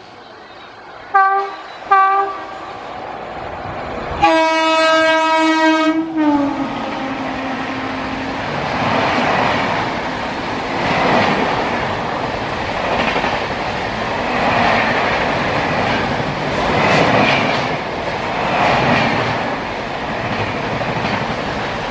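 Electric locomotive horn: two short toots, then one long blast about four seconds in that drops in pitch as the locomotive passes. Then comes the loud rush and rhythmic clatter of a passenger train's coaches running through at speed.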